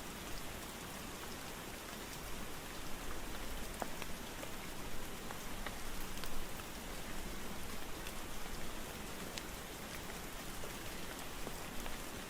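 Steady rainfall, an even hiss with scattered individual drops ticking sharply on a surface.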